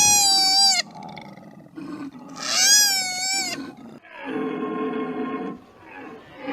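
Animal calls: two loud, high-pitched calls about a second long, each rising and then falling in pitch, followed by a lower, drawn-out call.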